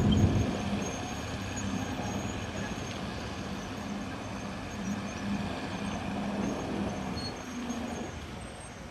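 CAT D6R XL bulldozer's diesel engine running with a low drone, loudest at the very start and easing to a steadier, quieter level within the first second.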